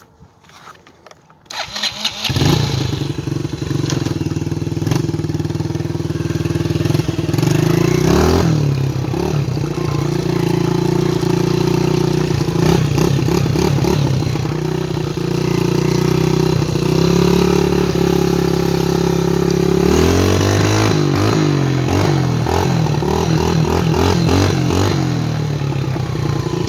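Yamaha TT-R90 dirt bike's small four-stroke single-cylinder engine starting about two seconds in, then running steadily with its choke stuck, revving up briefly twice.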